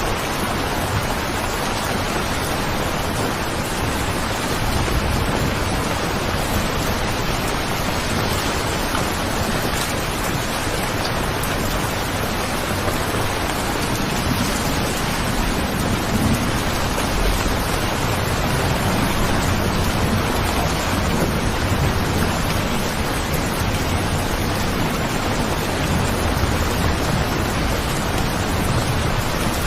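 Steady heavy rainfall, an even hiss of drops, with a low rumble that swells about halfway through.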